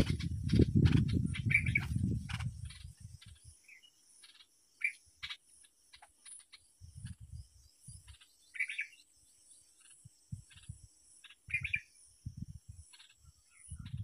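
Short bulbul chirps, a handful spread out with long gaps between them, over a faint steady high hiss. A loud low rumble fills the first two seconds or so, and a few soft low thumps come later.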